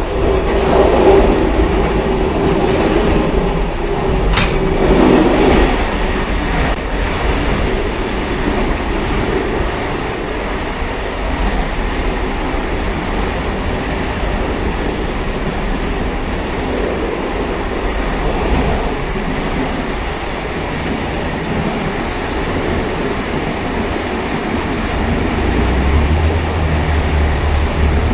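Railcar running on the rails, a steady rolling rumble with light wheel clatter. One brief sharp click comes about four seconds in, and a deeper low rumble comes in near the end.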